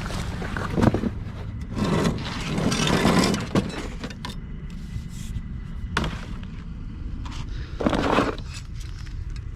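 Objects being handled and shifted while rummaging through a pile of junk: several scraping, shuffling bursts and a sharp knock about six seconds in, over a steady low rumble.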